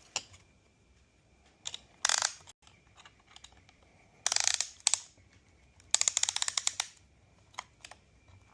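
Hand ratchet clicking in short runs on engine parts, with a longer run of rapid clicks about six seconds in and single metal clicks between.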